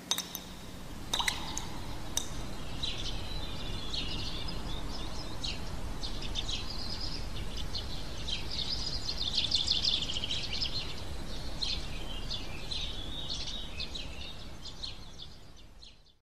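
A few sharp drips from a tap in the first two seconds, then birds chirping busily over a steady low rumble, fading out near the end.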